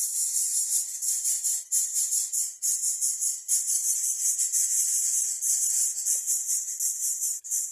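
High-pitched insect buzzing, rapidly pulsing and continuous, breaking off briefly a few times.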